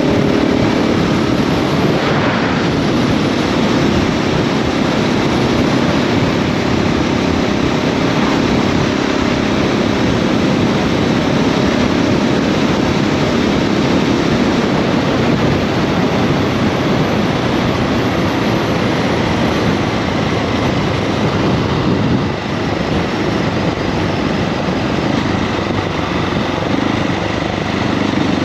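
KTM 690 SMC R single-cylinder engine running steadily under way, with loud wind rush over the microphone.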